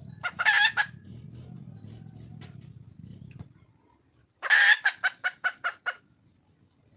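A wild hen red junglefowl calls: one short call just under a second in, then about two-thirds through a longer call followed by about six short clucks at roughly five a second. A low steady rumble underneath fades out about halfway.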